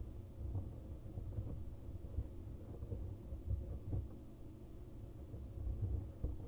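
Soldering torch flame burning with a steady, uneven low rumble while heating a soldered copper pipe joint.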